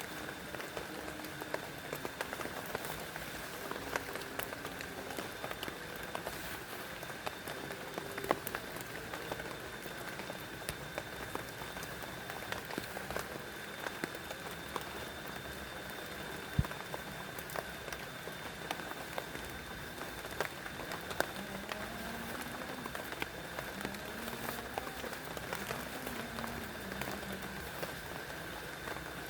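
Steady rain falling, with many individual drops ticking sharply on a surface close by.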